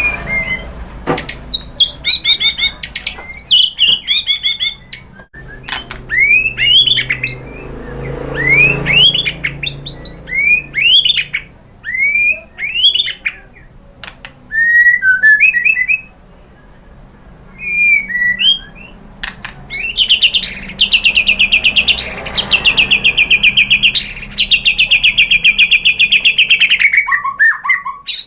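White-rumped shama (murai batu) singing: loud, varied whistled phrases, many rising sharply, mixed with sharp clicks. In the last third comes a long, fast trill held for several seconds.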